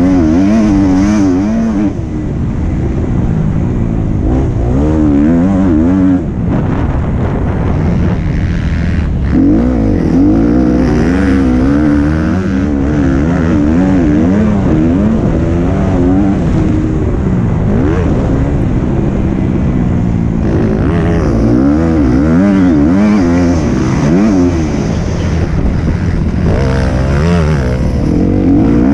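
Motocross bike engine heard close up from an onboard action camera, revving up and down continuously as it is ridden, its pitch rising and falling every second or two.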